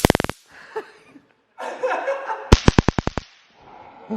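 Handheld stun gun (taser) zapping in two short bursts of rapid crackling clicks, one right at the start and a longer one about two and a half seconds in.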